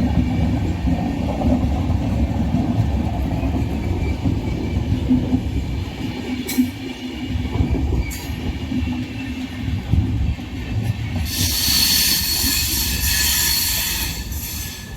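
Passenger train coaches rolling past on the track with a steady low rumble and a couple of sharp clanks. About eleven seconds in, a loud high-pitched wheel screech sets in and lasts about three seconds.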